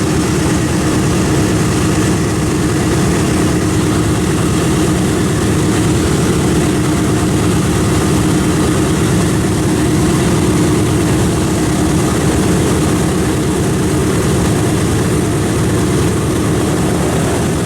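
World War II warbird piston engines running close by, a propeller aircraft idling or taxiing with a loud, steady drone.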